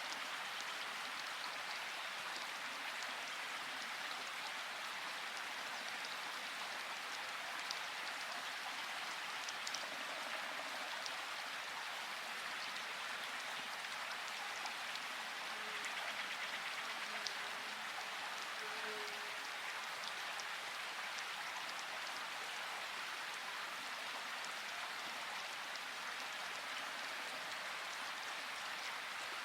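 Steady rain falling, an even hiss with scattered light ticks of drops.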